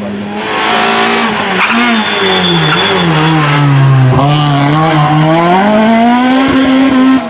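Rally car engine passing at close range, loud: its pitch falls as the car slows, then climbs steadily as it accelerates away. The sound cuts off suddenly near the end.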